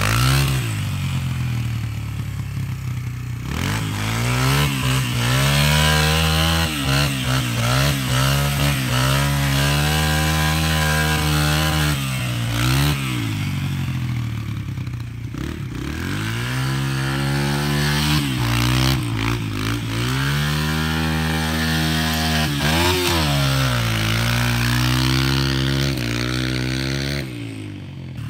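Small single-cylinder pit bike engine idling, with its throttle blipped again and again so that the pitch rises and falls every few seconds.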